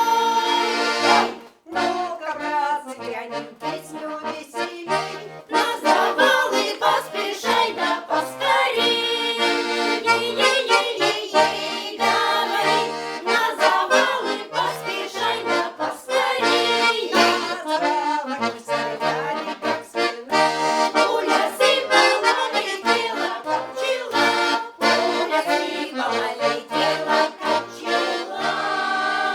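Accordion playing an instrumental passage of a Russian folk song: a melody over a steady pattern of bass notes, with a brief break about a second and a half in.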